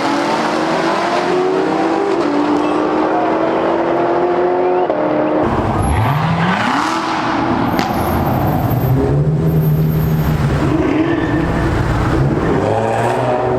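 Car engines running and revving. About five and a half seconds in, a deeper engine comes in loud, its pitch dipping and then climbing as it revs, before settling into a steady run.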